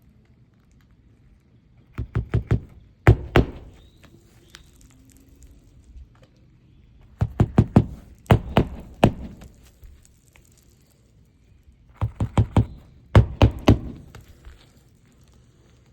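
Hammer driving roofing nails to fasten a replacement shingle, struck in quick bursts of two to five blows per nail with pauses between nails.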